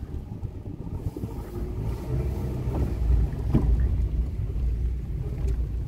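Small Hyundai car running, heard from inside the cabin: a steady low rumble with a faint knock about three and a half seconds in.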